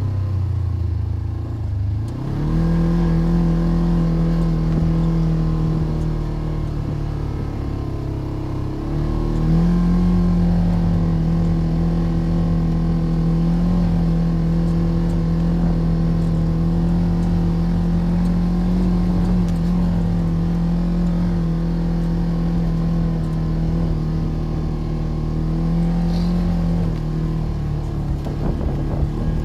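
A motor running steadily at a held pitch. Its pitch drops for the first couple of seconds and again from about six to nine seconds in, then climbs back to the same steady level.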